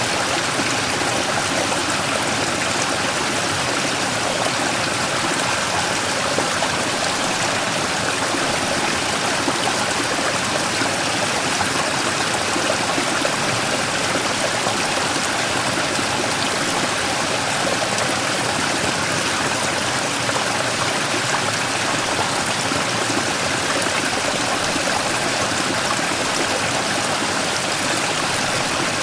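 Mountain stream rushing and splashing steadily over a large rock, an even, unbroken sound of running water.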